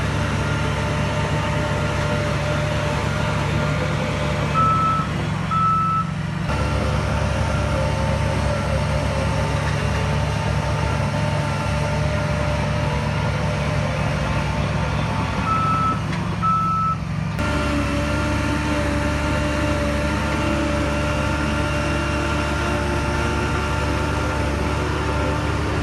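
Heavy diesel earthmoving machinery running steadily, with two pairs of short, high reversing-alarm beeps about eleven seconds apart.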